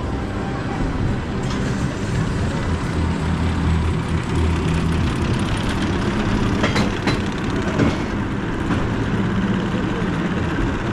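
Mack Rides spinning roller coaster train rolling slowly along its track after dispatch: a steady low mechanical rumble and hum, with a sharp click about seven seconds in.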